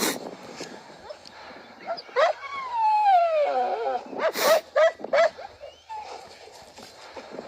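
Dogs whining and yelping, excited on a rabbit's scent. About two seconds in comes one long whine falling in pitch, then a loud sharp bark and a few short yips.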